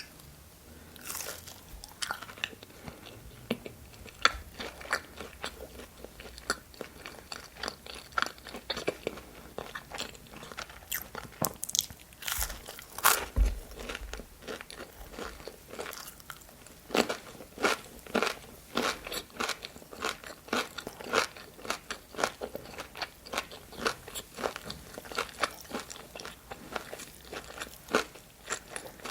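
Close-up eating sounds: crunchy bites and chewing of breaded chicken nuggets, a quick run of crisp crackles.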